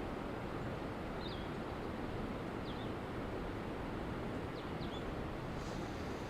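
Steady rush of a small stream's flowing water, with a few short, high bird chirps scattered over it.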